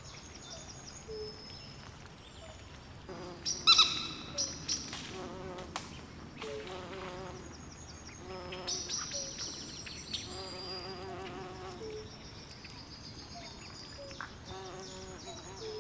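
Night swamp chorus of frogs and insects: short, high chirps repeat throughout while frogs give wavering low trills. One loud, sharp call stands out about four seconds in.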